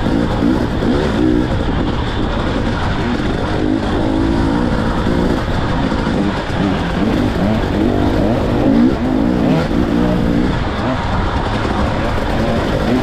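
Enduro motorcycle engine running hard, its pitch rising and falling again and again with the throttle and gear changes.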